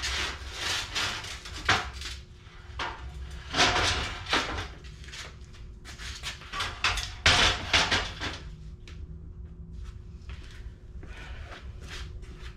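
Irregular knocks, clunks and scraping from hand work on a mini bike's metal parts, loudest in two clusters around the middle, over a steady low hum.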